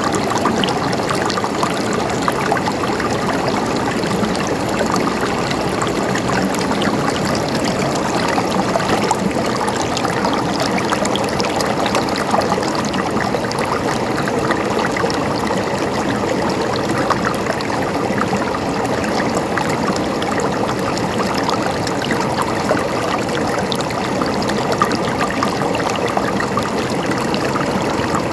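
Water flowing and gurgling over rocks in a stream, a steady splashing rush with many small trickles and drips.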